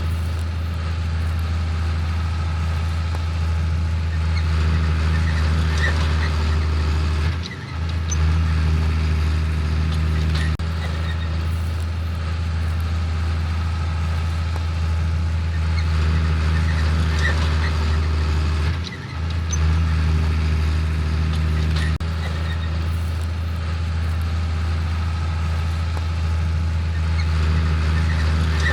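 Heavy diesel farm machinery running steadily in the field, a continuous low engine drone. It dips briefly twice, about seven and nineteen seconds in.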